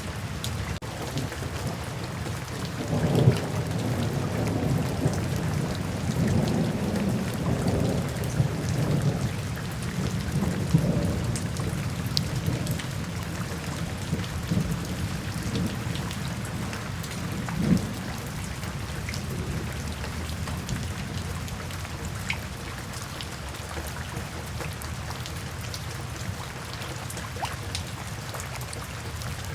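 Steady rain falling, with a long roll of thunder rumbling low from about three seconds in and dying away after some ten seconds, leaving the rain alone.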